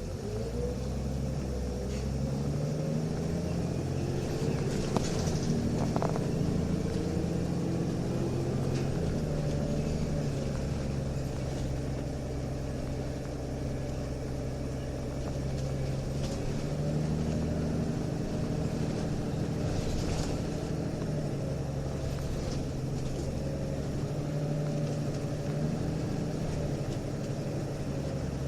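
Nissan Diesel UA city bus's diesel engine pulling hard through its ZF four-speed automatic, heard from inside the cabin: revs rise in the first few seconds, then it runs on with a few steps in pitch as the gears change, with light rattling clicks now and then. This unit sounds different from a normal UA272: it shifts up at high revs, which the recordist puts down to power mode or a slipping torque converter.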